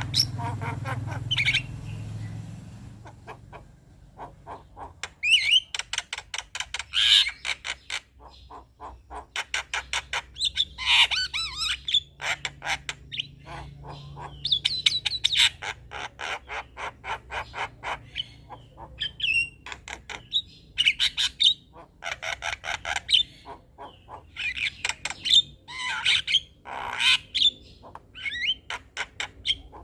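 Male Javan myna (jalak kebo) singing: rapid rattling trains of clicks mixed with short whistled phrases, in bursts with brief pauses between them.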